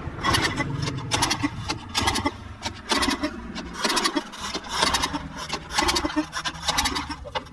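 Briggs & Stratton engine on a Troy-Bilt pressure washer being pull-started repeatedly, with about eight strokes roughly a second apart, cranking over without catching. The owners take it that fuel is not getting through the carburetor.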